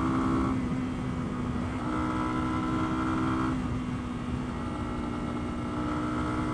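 Lexmoto Venom 125's single-cylinder four-stroke engine running at fairly steady revs while riding, heard from the rider's mic with low wind rumble. The engine note grows stronger and fades back twice as the throttle is opened and eased.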